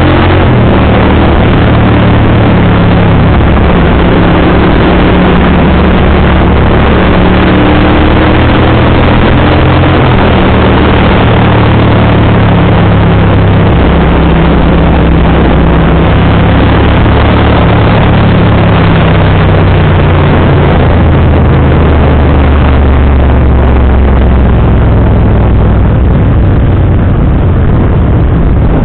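650cc cruiser motorcycle engine running under way at road speed, its pitch shifting up and down several times with throttle and gear changes, under a loud rushing noise.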